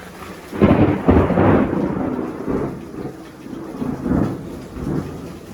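A thunderclap breaking suddenly about half a second in, loudest for the first second, then rolling on in uneven rumbles that fade over the next few seconds.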